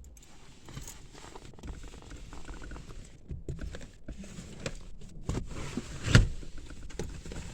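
Clothing rustling and handling noises with scattered clicks, and a single loud thump about six seconds in.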